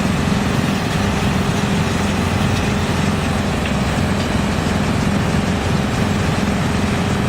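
YGX2113 drum wood chipper running steadily, a loud even machine drone with a constant low hum.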